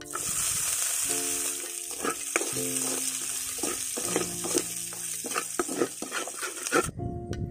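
Garlic, shallots and chilies sizzling in a hot wok, with a metal ladle scraping and clinking against the pan as it is stirred. The sizzle cuts off suddenly near the end.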